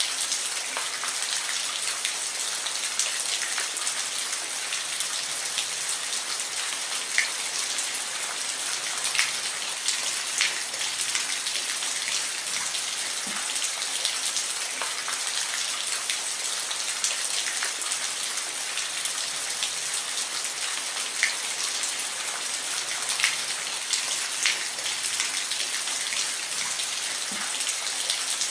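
Steady rain falling, an even hiss with the odd louder drop ticking out now and then.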